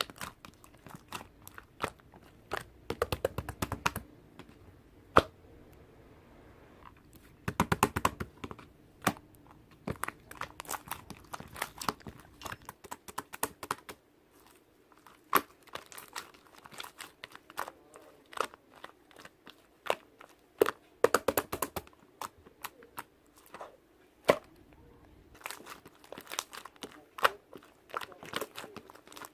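Slime being squeezed and played with by hand, giving many sharp clicks and pops, in dense clusters about three and eight seconds in.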